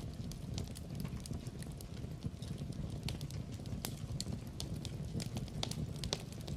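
Wood fire in a fireplace crackling: irregular sharp pops and snaps, several a second, over a steady low rumble of the burning logs.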